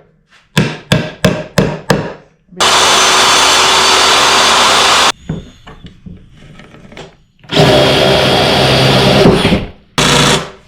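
A quick series of about seven sharp knocks on wood, then a power tool runs loudly and steadily in three bursts, the first two lasting two to three seconds each and the last one short.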